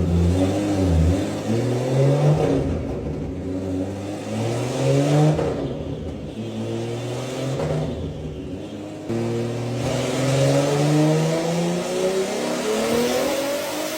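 Heavily tuned Toyota Supra MK4 2JZ straight-six being revved hard: the engine pitch climbs and drops several times, then after an abrupt change about two-thirds through it rises in one long sweep.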